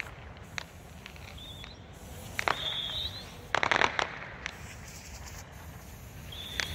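Handheld fireworks (firecrackers) going off: scattered sharp bangs with short whistles, and a quick run of crackling pops a little past halfway.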